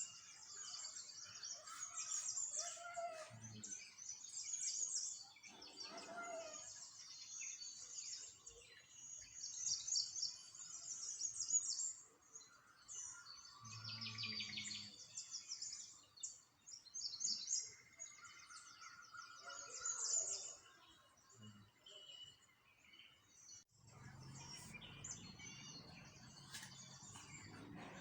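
Small songbirds chirping and singing, with many quick high trills and a few lower whistled calls overlapping. A low steady background noise comes in about four seconds before the end.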